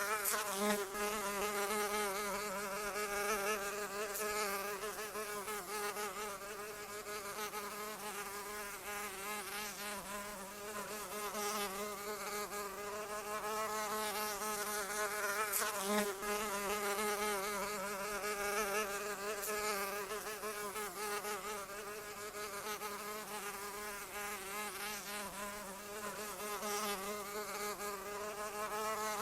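A flying insect's wings buzzing continuously, a steady pitched drone whose pitch wavers slightly up and down as it flies about.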